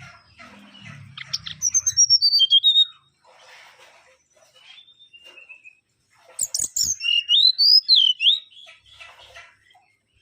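Mangrove whistler singing: two loud phrases, about a second in and again about six seconds in, each a quick run of sharp notes followed by slurred, falling whistles, with quieter notes between.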